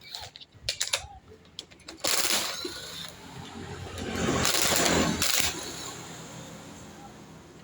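Metal tools and parts clinking and knocking, with two longer scraping or rasping noises, the second lasting over a second.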